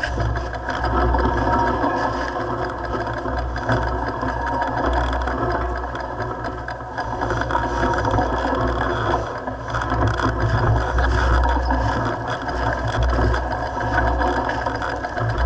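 Mountain bike rattling and clattering continuously over rough dirt trail during a downhill run, with wind buffeting the microphone as a rumbling roar underneath.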